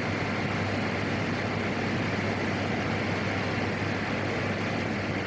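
Steady in-flight drone of a PAC 750XL's single Pratt & Whitney PT6A turboprop, heard through the aircraft's intercom audio feed as an even hiss with a constant low hum.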